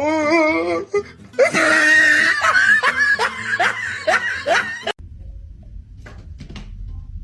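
A person laughing hard: a run of repeated laughs that cuts off suddenly about five seconds in, leaving low rumbling background noise.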